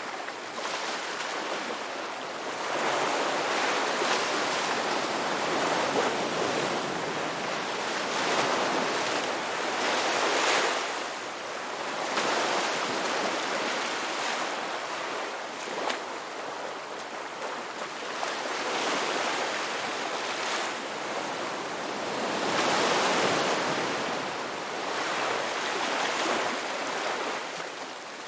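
Ocean waves breaking on a beach, a steady wash of surf that swells and falls back every few seconds.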